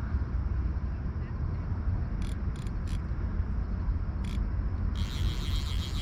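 A fly reel clicking as a hooked rainbow trout is played: a few short bursts about two to four seconds in, then steady rapid ratcheting from about five seconds in, over a constant low rumble.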